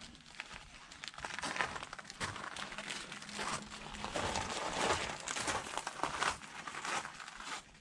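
Irregular crinkling and rustling of material being handled.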